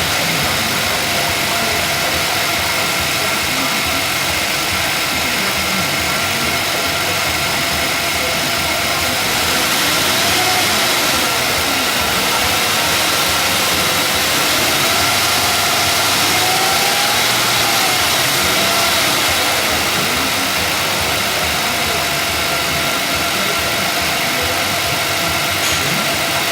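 2003 Lincoln LS 3.0L V6 engine idling steadily, becoming a little louder for several seconds through the middle. It is a 62,000-mile engine that the seller says runs and sounds great.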